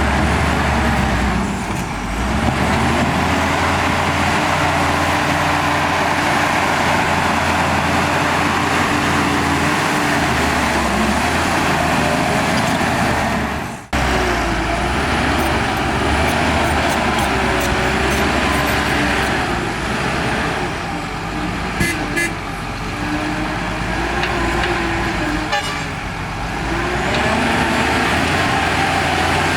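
Heavy earthmoving machinery's diesel engine working, its pitch rising and falling with the load, with a few sharp metallic clanks about two-thirds through. The sound breaks off for an instant about halfway through and comes straight back.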